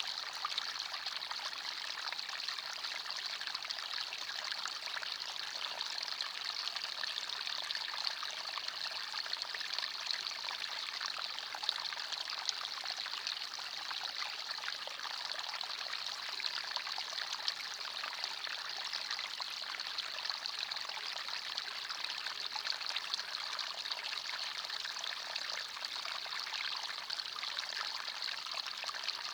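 Forest stream running steadily, water trickling and splashing over stones.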